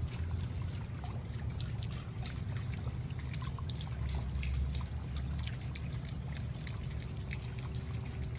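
Water trickling and splashing into a koi pond, a steady wash of small splashes over a low rumble.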